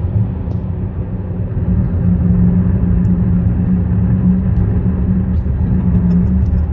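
Car tyres running over a concrete bridge deck: a steady low rumble with a droning hum, growing slightly louder about two seconds in.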